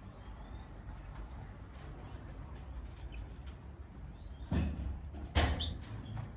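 Small aviary birds chirping, short faint high chirps scattered throughout. Two louder thumps stand out near the end.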